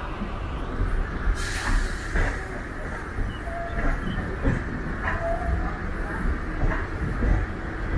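Chennai suburban EMU electric train running, heard from inside a second-class coach: a steady rumble of wheels on rail with irregular clicks and knocks from the track.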